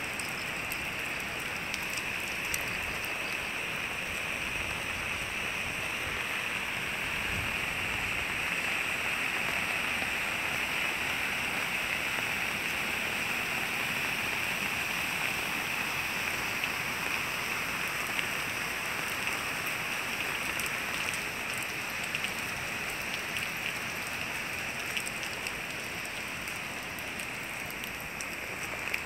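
Steady rain falling on wet pavement, a constant even hiss with faint scattered drop ticks.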